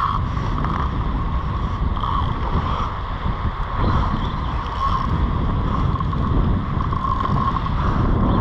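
Wind buffeting the microphone in a low, steady rumble over beach surf, with a mid-pitched whir that swells and fades.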